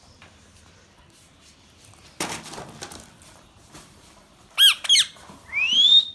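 Indian ringneck parrot calling: a brief harsh sound about two seconds in, then two quick arched whistles and a rising whistle near the end.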